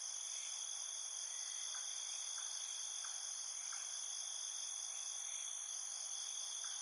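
Steady, high-pitched insect chorus, a continuous trill, with faint soft ticks repeating about every two-thirds of a second.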